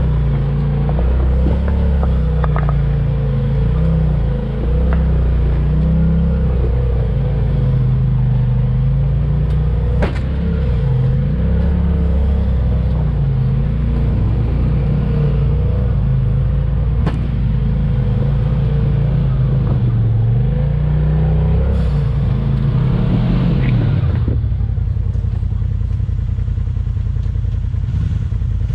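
Off-road vehicle engine running under changing throttle, its pitch rising and falling as it drives, with occasional knocks and clatter. About 24 seconds in it drops to a steady low idle.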